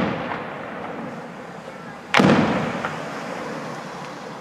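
Aerial firework shells bursting: one sharp bang about two seconds in, its echo fading away slowly, with the dying tail of a previous burst at the start.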